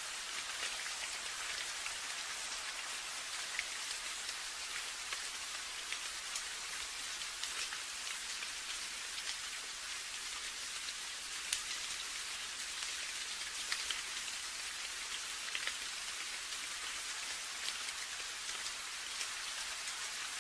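Steady rain falling, an even hiss with many individual drops ticking through it and an occasional louder drip.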